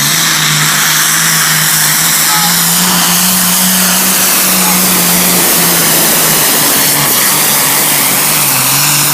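John Deere 4455 tractor's turbocharged six-cylinder diesel running flat out under heavy load while pulling the weight sled. Loud and unbroken, its pitch stepping up and down slightly now and then.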